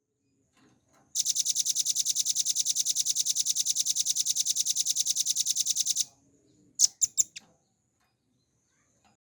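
Velvet-fronted nuthatch (rambatan paruh merah) singing: one long, fast, even trill of about eleven high notes a second lasting about five seconds, then three sharp short notes about seven seconds in.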